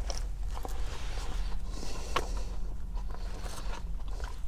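Close-up mouth sounds of biting into and chewing a sandwich, with a few short wet clicks and smacks, over a steady low rumble.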